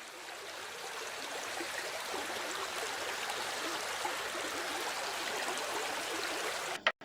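Steady rush of running water, building over the first second, holding even, then cutting off abruptly near the end.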